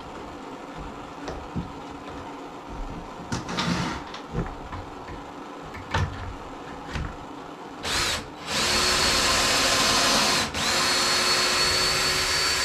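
A few light knocks of boards and a jig being handled, then a power drill boring pocket holes through a pocket-hole jig into a wooden board: a short burst, then a steady whining run that stops briefly and starts again near the end.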